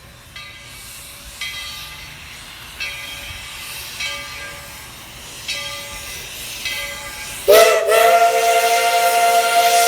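Steam locomotive bell ringing, one stroke roughly every second and a bit, then about three-quarters of the way through the locomotive's steam whistle opens with a short rising slur and holds as a loud, steady chord over steam hiss. This is Tweetsie Railroad's 4-6-0 steam locomotive #12, whose whistle is high-pitched.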